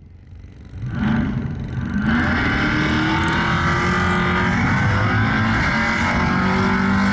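The 1978 Dodge D200's 451 cubic inch big-block Mopar V8 running hard on the drag strip. It comes in about a second in, with its pitch climbing for a couple of seconds and then holding steady at high rpm.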